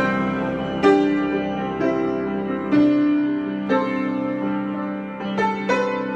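Solo piano improvisation: slow chords and notes struck about once a second and left to ring, with two quicker strikes near the end.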